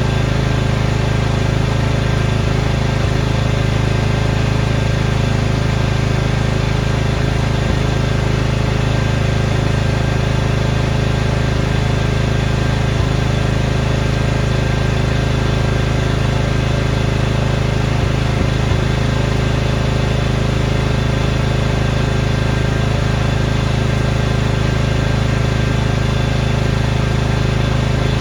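Small petrol engine of a snowblower running at a steady speed, unchanging throughout.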